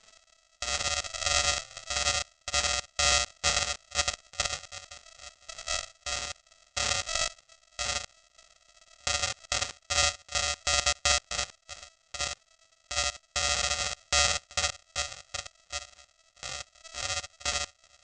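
Young crows (American crow fledglings) begging loudly while being hand-fed: rapid, harsh, repeated raspy calls in irregular clusters, several voices overlapping, with short pauses between bouts.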